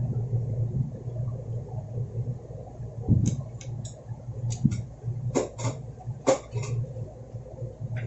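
A steady low hum, with a string of short clicks and knocks from objects being handled, starting about three seconds in.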